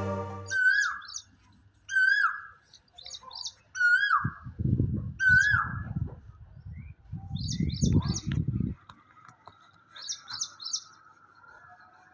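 Birds calling: one bird gives a repeated call about every one and a half seconds, each a short note that falls in pitch with high ringing notes above it, while quick bursts of high chirps come in between. A low rumble runs under the calls from about four seconds in to near nine seconds.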